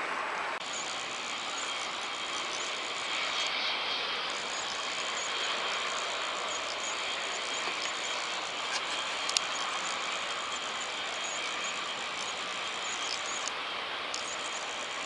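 Jet airliner engine noise: a steady hiss with a faint high-pitched whine, broken by a few sharp clicks.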